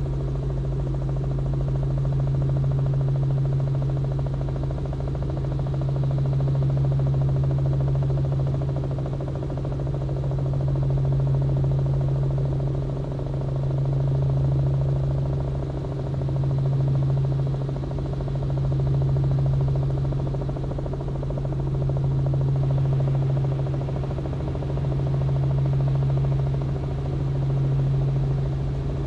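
Robinson R44 helicopter's engine and rotors running with a steady low drone, swelling and fading slowly every couple of seconds.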